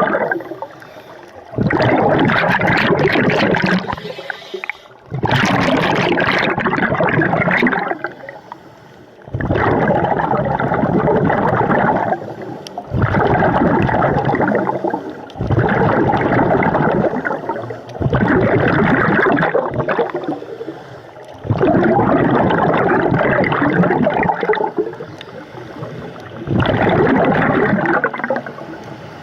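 Scuba diver breathing through a regulator underwater: loud bursts of exhaled bubbles, each lasting two to three seconds and coming every three to four seconds, about eight times, with quieter gaps between.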